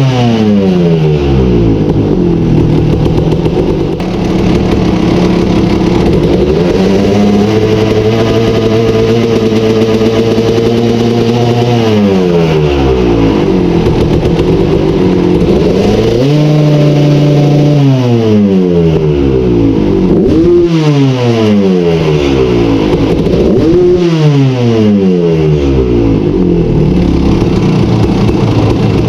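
Kawasaki KX250 two-stroke dirt bike engine running and being revved. About six seconds in the revs climb and hold high for several seconds before dropping back, followed by a shorter rev and then several quick throttle blips. The owner says it revs out snappier now that the throttle position sensor is reconnected and working.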